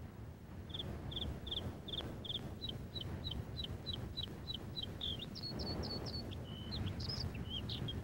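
A small bird calling: a run of short, high chirps repeated about two or three times a second, then higher, more varied notes from about five seconds in, over a steady low rumble of outdoor ambience.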